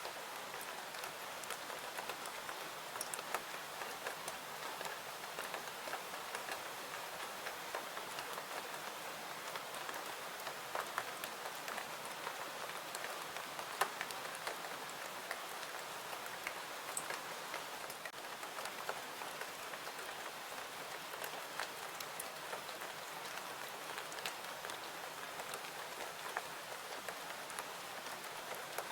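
Steady rain, an even hiss with many small scattered drop clicks and one sharper click about fourteen seconds in.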